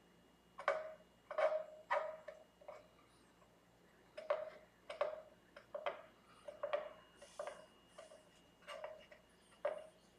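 Light, irregular clicks and taps of a metal tool on a guitar's frets, about a dozen short ones, with a brief scrape about seven seconds in.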